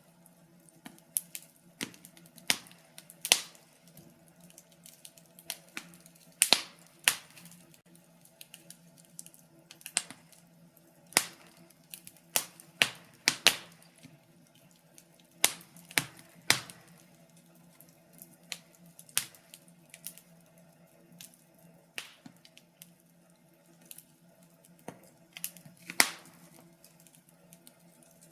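Wood fire crackling in a fireplace, with irregular sharp pops and snaps, some in quick clusters, over a faint steady low hum.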